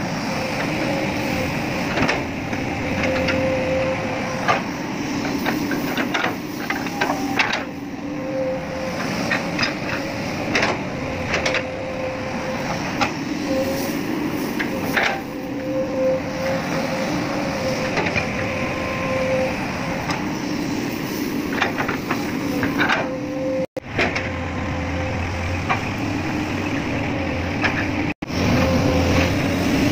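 Excavator engine running steadily, with frequent sharp metallic clanks and knocks from a magnetic excavator working iron chips. The sound cuts out briefly twice near the end.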